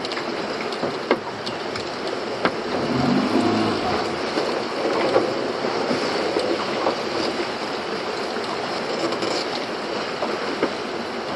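Small fishing boat under way at sea: a steady rush of water and motor noise, with a few sharp knocks on the boat.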